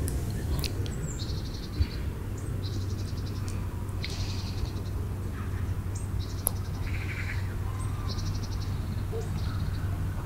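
Small birds singing short, rapid high trills, one every second or two, over a steady low rumble of outdoor background noise.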